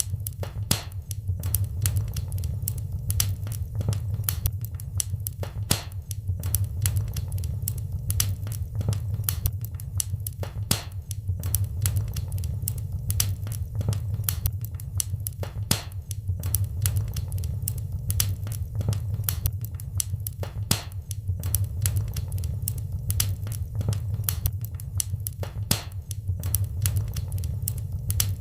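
Wood fire in a fireplace crackling, with a continuous stream of irregular sharp pops and snaps over a steady low rumble.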